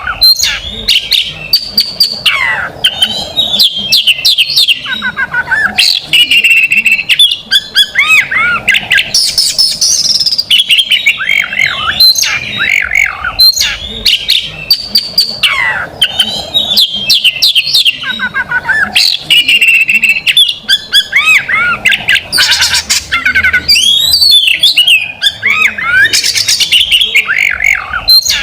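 Oriental magpie-robin (kacer) singing loudly and almost without pause: a varied song of sharp whistled notes and quick rapid pitch sweeps, including the fast, piercing 'tembakan' volleys valued in contest birds.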